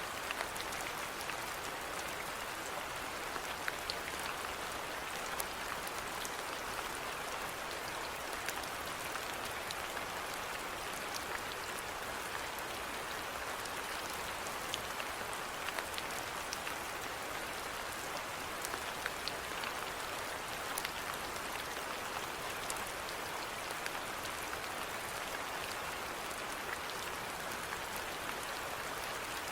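Steady rainfall: an even patter of rain with individual drops ticking sharply now and then.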